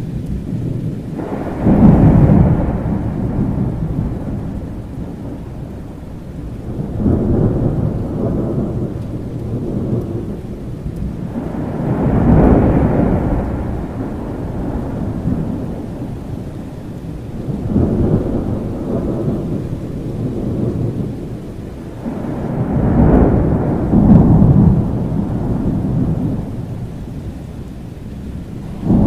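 Thunder rolling again and again over steady rain, a low rumble swelling up and dying away about every five to six seconds.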